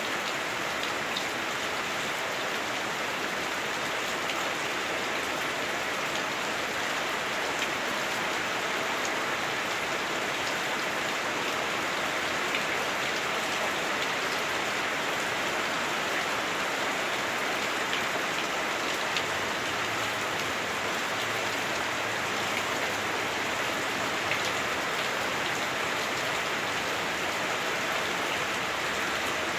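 Heavy rain drumming on a house roof, heard from inside the house: a steady, dense patter with scattered sharper drop ticks.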